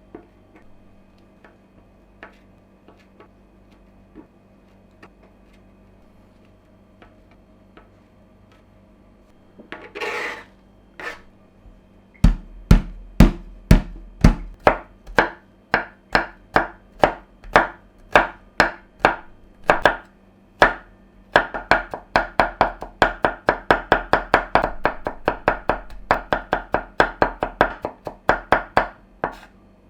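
Kitchen knife chopping food on a cutting board. A few faint taps and a brief scraping sound come first. From about twelve seconds in, steady strikes come about two a second, then quicken with sound between them near the end.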